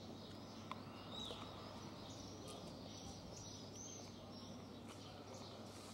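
Faint outdoor ambience: a steady low hum under scattered high, short bird chirps.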